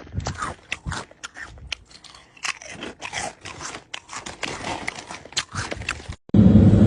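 Irregular sharp crunches of something being bitten and chewed. Shortly before the end it cuts off and a loud steady low rumble takes over.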